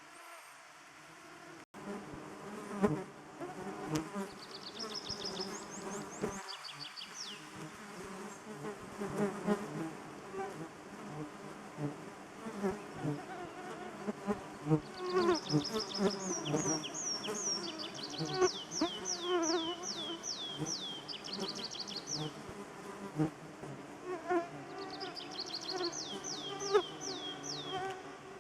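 Many blood-sucking insects buzzing around the microphone, their wavering whines overlapping. A bird sings three runs of quick, high, down-slurred notes over them.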